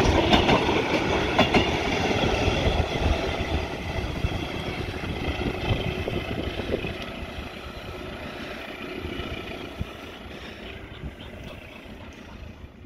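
A train passing, its wheels clicking over the rail joints, the sound fading steadily as it moves away.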